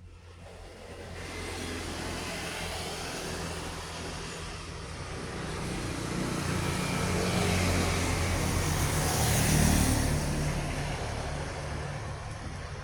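A road vehicle passing close by: engine drone and tyre noise build up, are loudest about ten seconds in, then fade away.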